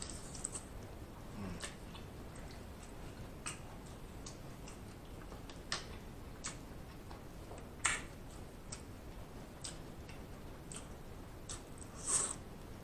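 Close-miked eating sounds of someone chewing shrimp: faint wet chewing with scattered sharp mouth clicks and smacks, irregular, a few of them louder.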